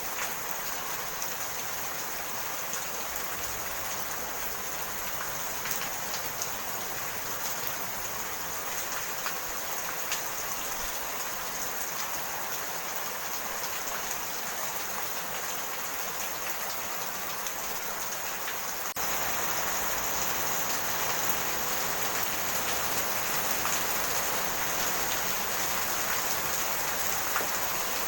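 Steady rain falling, a dense hiss with scattered small drop ticks. It steps up suddenly to a slightly louder level about two-thirds of the way through.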